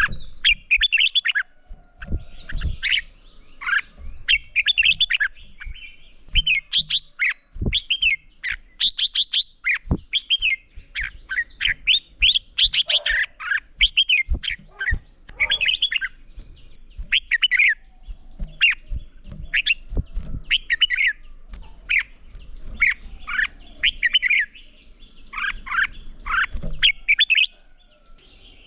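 Red-whiskered bulbuls singing, short bright warbled phrases following one another almost without pause.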